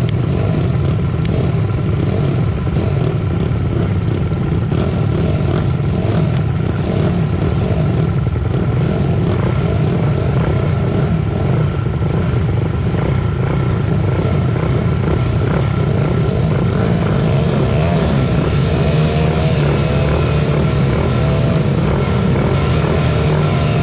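Pit bike engines running hard as several small motorcycles race, a steady loud engine din with a thin whine. In the last few seconds engine pitches rise and fall as riders work the throttle.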